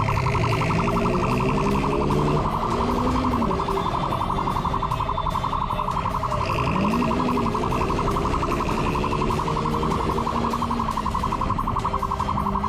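Police siren in a rapid, fast-pulsing pattern, with an engine's pitch rising and falling underneath it a couple of times.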